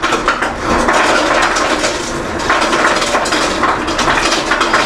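Loud, dense crunching and crackling close to the microphone, like crispy fried chicken wings being bitten and chewed.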